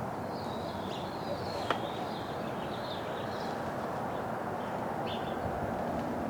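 Sparrows chirping in a run of short high calls over the first few seconds and once more near the end, over a steady low rumble of background noise, with one sharp click about two seconds in.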